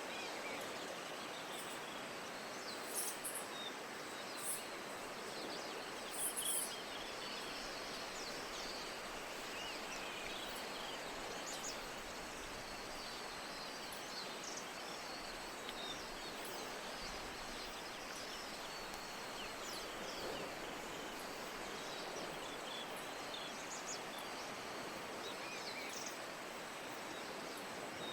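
Steady hiss of rain falling, with faint scattered small chirps over it and a few short, very high-pitched chirps about three to seven seconds in.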